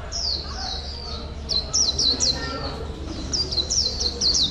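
A songbird singing a fast run of short, high chirps, each note sweeping quickly downward, with a steady low hum underneath.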